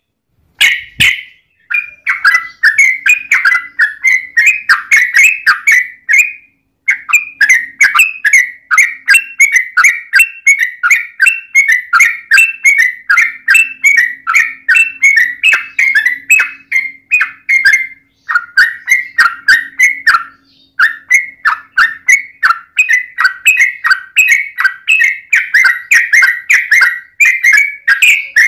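Yellow-vented bulbul (trucukan) singing a long, fast run of bubbly chirping notes, several a second, in long strings broken by a few short pauses; a sharp click sounds about a second in.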